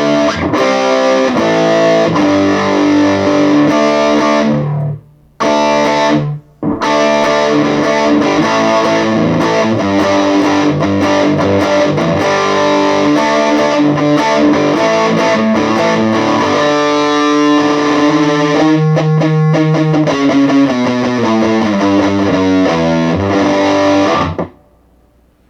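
Electric guitar played through a Positive Grid Reactor 50 combo amp on a distorted high-gain preset with a noise gate. The sound drops out abruptly twice, about five and six and a half seconds in, and stops sharply about a second before the end as the gate shuts between phrases.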